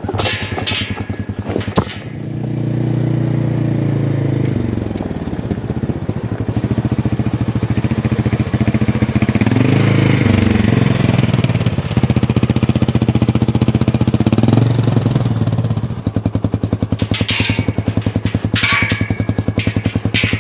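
A small vehicle's engine running as it is driven off, revving up and easing off twice before settling to a lower, steadier run near the end. A sharp click comes just before the engine note rises.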